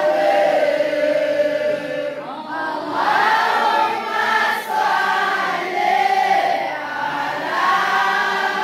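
A group of voices chanting a melodic recitation together, in phrases broken by short pauses about every two seconds.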